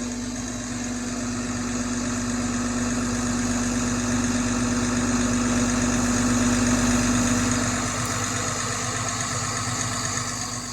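Truck engine running steadily, like an idle, with one strong low hum; it swells slowly and eases off again about eight seconds in.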